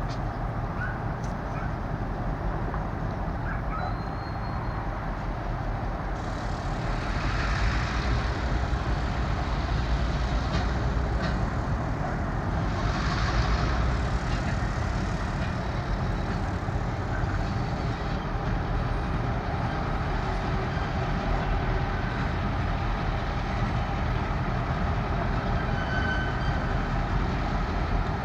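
Three diesel locomotives running light, coupled together, with a steady low engine rumble throughout. The sound swells with extra hiss and noise about seven seconds in and again about thirteen seconds in.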